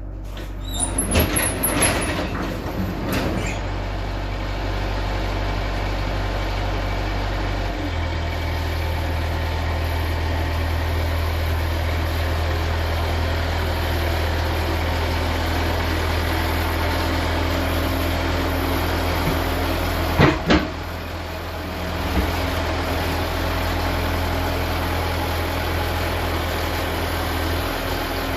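Steady low mechanical hum, like a motor running, with a few sharp knocks in the first few seconds and another about two-thirds of the way through.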